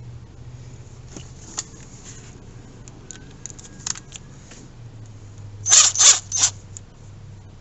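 Small clicks and rattles of a metal hose clamp being handled and fitted over a rubber hose on a check valve fitting, with three louder clicks close together about six seconds in.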